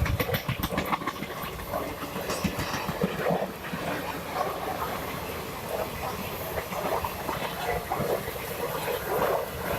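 Train running on the rails: a steady rumble, with a quick run of wheel clicks over the rail joints in the first second.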